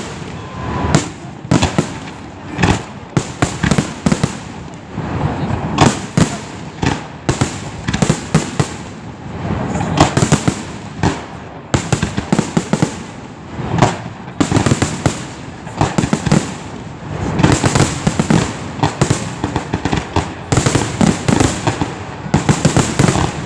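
Professional fireworks display: aerial shells bursting one after another, sharp bangs often several a second, with crackling between them.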